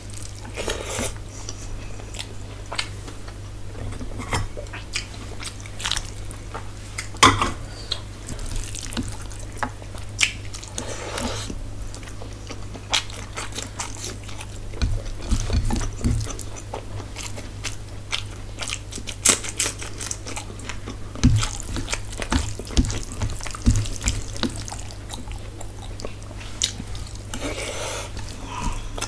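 Close-miked chewing and wet mouth sounds of someone eating rice and fried food by hand, with scattered soft clicks and crackles from fingers working the food on a steel plate, over a steady low hum.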